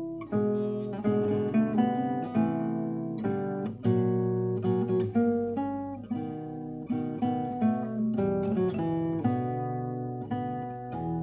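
Seven-string acoustic guitar playing a slow, lyrical piece solo, plucked melody notes over ringing bass strings.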